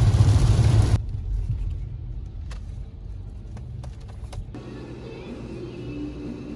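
Low, steady rumble of a car driving. A loud rushing noise fills the first second, then cuts off, and a few sharp clicks follow in the middle.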